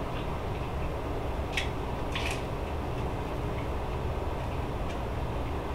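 Someone eating a chaffle burger with crisp chaffle buns: two short crunches about one and a half and two seconds in, over a steady low hum.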